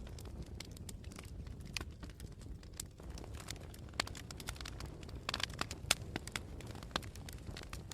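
Campfire crackling: irregular sharp pops and snaps over a steady low rumble, with a quick flurry of pops a little past the middle.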